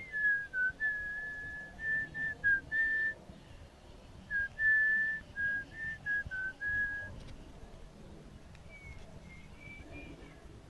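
A person whistling a tune: a string of short, steady notes for about seven seconds, then a few fainter, higher notes near the end.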